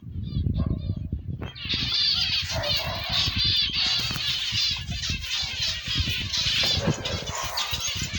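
A flock of caged ornamental birds chattering and chirping together in a dense, continuous chorus of rapid high chirps that swells to full strength about a second and a half in. A low rumble with short thumps runs underneath.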